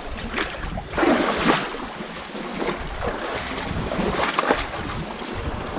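Sea water washing and sloshing among shoreline rocks in surges, with wind buffeting the microphone.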